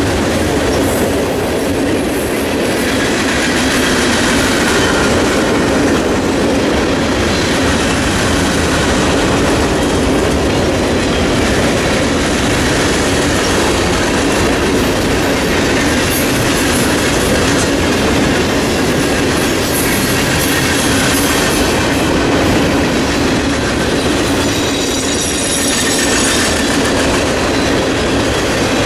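Freight cars of a long mixed freight train rolling past at close range: a steady, loud rumble and clatter of steel wheels on the rails.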